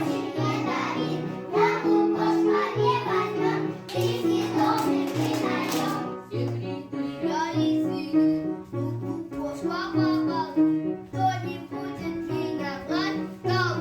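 Music for a children's song playing, with children's voices singing along to it.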